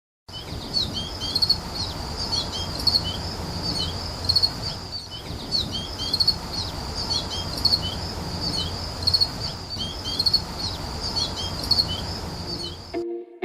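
Small birds chirping over and over in short, quick calls, over a low steady rumble.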